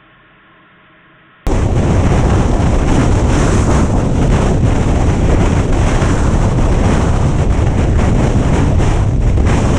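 Loud, steady wind rushing and buffeting over a camera microphone on a moving motorcycle in strong wind. It cuts in abruptly about a second and a half in, after a short faint stretch.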